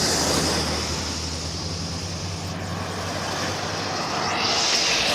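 A large engine running steadily with a hiss over it, swelling a little near the end.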